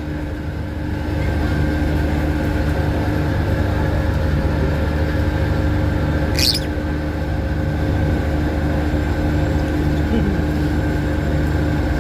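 Steady low hum of a ferry's engines, with a single short, high lovebird chirp about six and a half seconds in.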